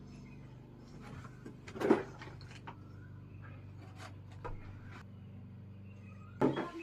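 Several knocks and clatters of hard objects being handled, the loudest about two seconds in and another near the end, over a steady low hum.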